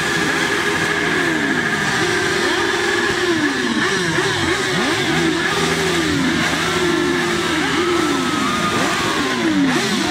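Several motorcycle engines revving at once, their pitches rising and falling over and over in overlapping sweeps.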